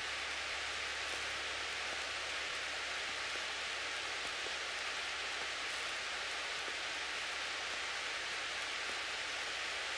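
Steady hiss of a Cessna 172's cockpit audio as it taxis at low power, with a faint steady whine and a low hum underneath.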